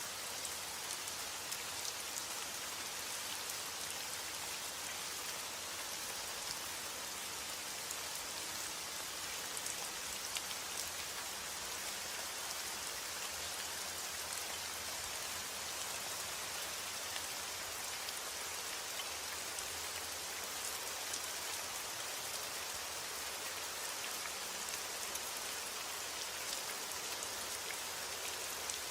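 Steady rain falling on a surface, an even hiss of many drops with scattered individual drop ticks, without a break or thunderclap.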